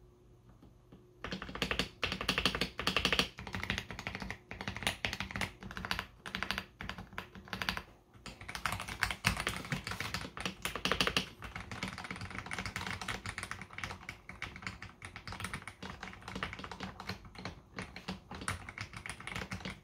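Typing on a KBD67 Lite R3 mechanical keyboard fitted with lubed AKKO CS Jelly Blue tactile switches: rapid, uneven keystrokes, with a short pause near the start and a brief lull about eight seconds in.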